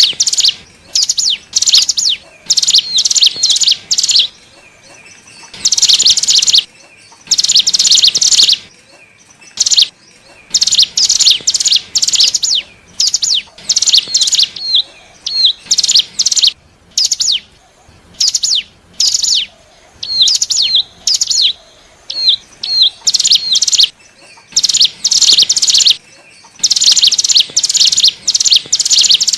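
Ciblek gunung (hill prinia) singing: loud phrases of rapid, high, repeated chirps, each a second or two long, with short pauses between them. This is a lure song meant to draw in wild birds of the same species.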